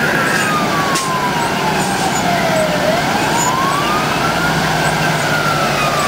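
Fire engine siren in wail mode, its pitch sliding slowly down, back up and down again, about one full cycle every four seconds, over steady engine and road noise.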